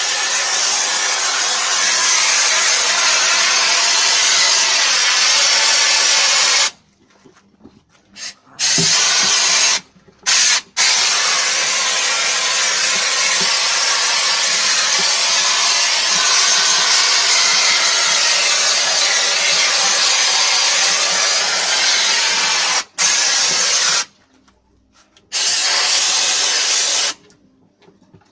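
Hand-held washer gun spraying a high-pressure jet of water onto truck brake drums: a steady loud hiss that stops dead each time the trigger is released, about seven seconds in, around ten seconds, twice more in the low twenties, and near the end.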